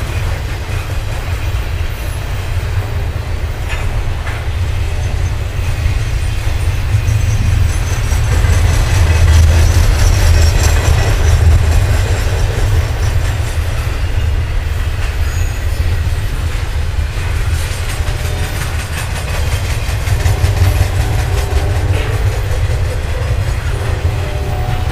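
Loaded double-stack container well cars of a freight train rolling past close by: a loud, steady rumble with wheels clicking over the rail joints. A few steady whining tones come in near the end.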